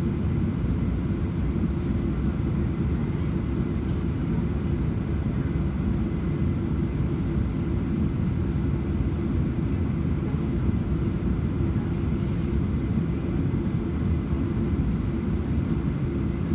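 Steady low rumble of engine and airflow noise inside the passenger cabin of a Boeing 737-800, heard from a window seat.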